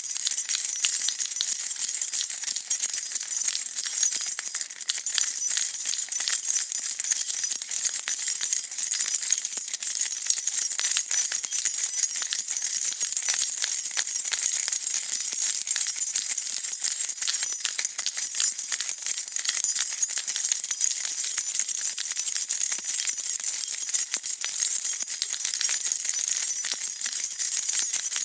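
A bunch of metal keys being shaken and jingled without a break, a dense run of bright, fast clinks.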